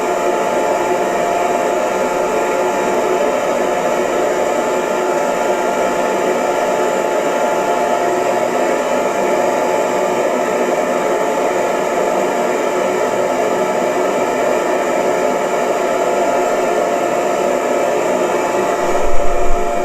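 Electric hair dryer running steadily: an even rush of blown air with a constant motor whine. Near the end there is a brief louder low thump.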